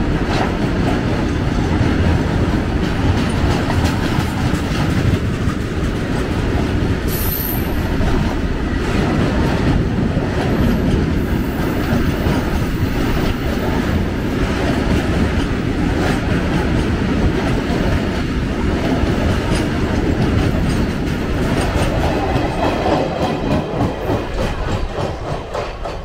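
A freight train's BTPN oil tank wagons rolling past close by: a steady rumble with the clickety-clack of wheels over rail joints. There is a brief high wheel squeal about seven seconds in, and the sound fades near the end as the last wagon goes by.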